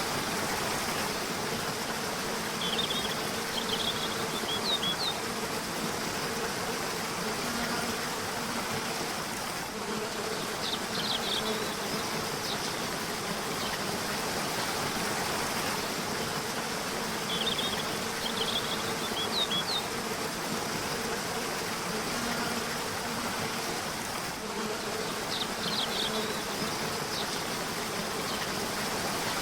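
Steady rush of a river or waterfall, with short bursts of bird chirping about four times, and a faint low droning hum that comes and goes.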